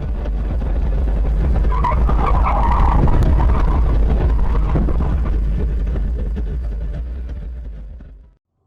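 Motor vehicle noise: a heavy low rumble that swells to its loudest about three seconds in, then fades away and cuts off near the end.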